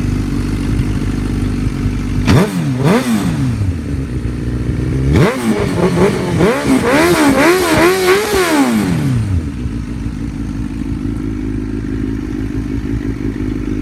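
2006 Suzuki GSX-R1000's inline-four engine, through a Yoshimura aftermarket exhaust, idling while stationary. It is revved once about two seconds in, then given a quick series of throttle blips that rise and fall several times before it settles back to a steady idle.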